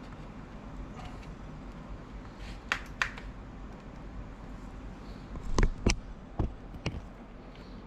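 Sharp plastic clicks and snaps from a Lenovo ThinkPad E550 laptop's case and clips being pried apart with a plastic tool: two clicks about three seconds in, then four louder ones a little before the end, over a low steady hum.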